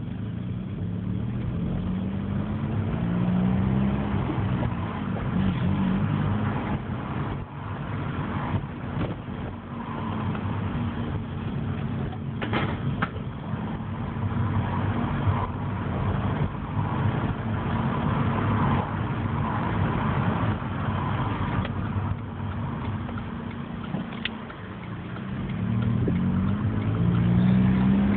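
Opel Astra G accelerating, the engine note rising in pitch early on and again near the end, with a steady drone between and a couple of sharp clicks about midway. This is the noise the owner hears when accelerating.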